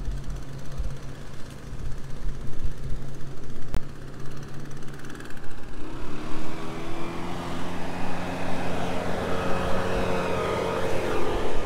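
Engines running: a steady low hum throughout, joined about halfway through by a second engine whose pitch rises slightly as it grows louder, loudest near the end.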